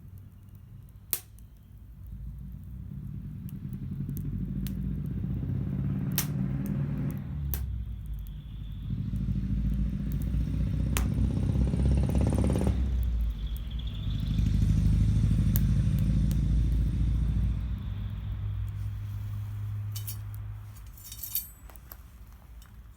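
Motor vehicle engines passing one after another, three times swelling and fading, with scattered sharp clicks.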